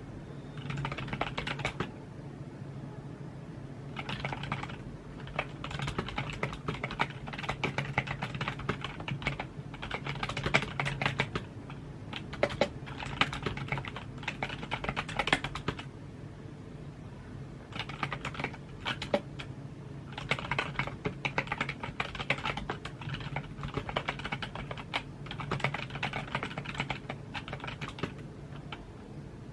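Typing on a computer keyboard: runs of rapid keystroke clicks lasting a few seconds each, broken by short pauses.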